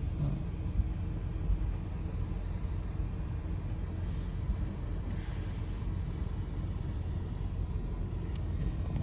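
Steady low rumble of a car heard from inside the cabin, the engine and road noise of a ride, with two faint brief rushes of noise about four and five seconds in.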